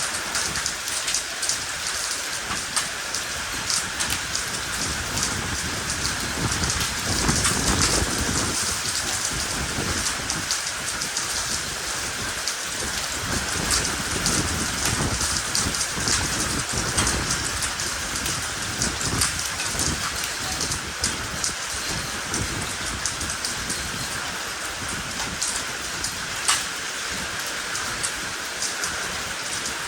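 Heavy rain mixed with hail from an ice storm, falling steadily and pelting hard surfaces with a dense patter of sharp ticks. A louder, deeper surge comes about seven to eight seconds in.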